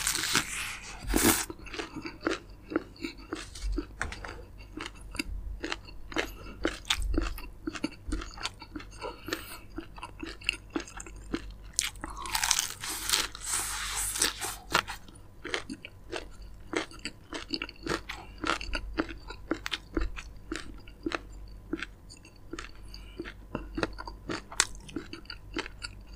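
Close-miked chewing and crunching of crispy fried chicken, with the breading crackling in many quick, sharp crunches. A longer, noisier stretch of crunching comes about halfway through.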